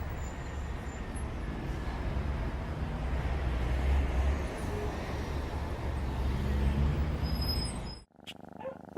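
Street traffic ambience: a steady rumble of passing vehicles that cuts off about eight seconds in.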